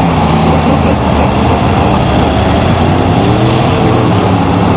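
Monster truck engine running loud, its pitch rising and falling a little after the midpoint as the throttle is worked.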